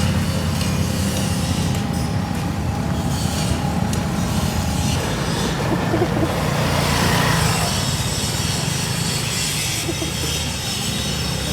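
Small motorcycle engine idling steadily, with a slight swell in its sound a little past the middle.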